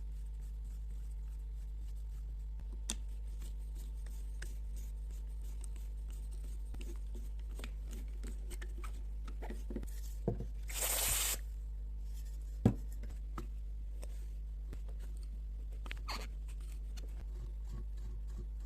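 Quiet handling sounds of small-parts work at a bench: scattered light clicks and taps over a steady low hum, a short hiss just past the middle, and one sharp knock soon after.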